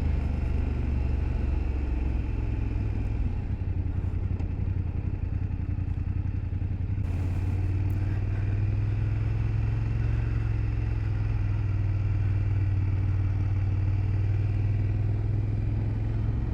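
A motorcycle running on the road, its engine note a steady low drone with road and wind noise; about halfway through the engine pitch rises a little as the bike picks up speed.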